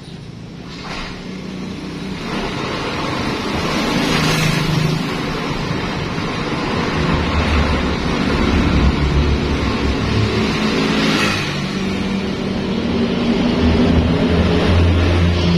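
A motor vehicle engine running, its pitch and loudness rising and falling, louder after the first few seconds.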